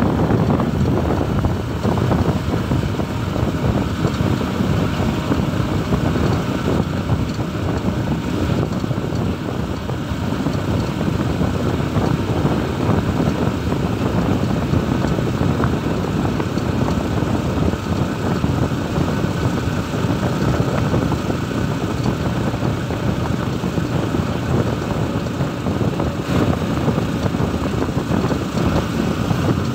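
Motorcycle engine of a motorcycle-and-sidecar tricycle running steadily while riding along a road.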